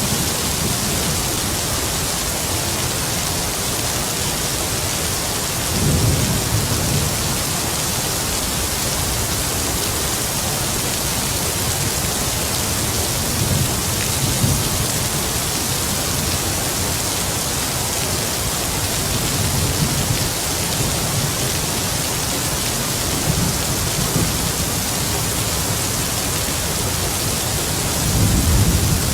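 Heavy rain pouring steadily, with distant thunder rumbling low several times, most strongly about six seconds in and again near the end.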